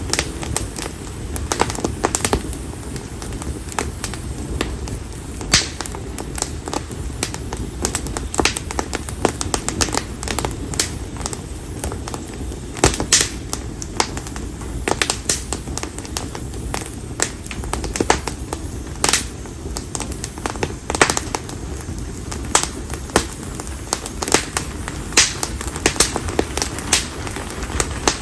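Campfire of split konara oak firewood burning, with frequent irregular crackles and sharp pops over a low steady rumble of flames.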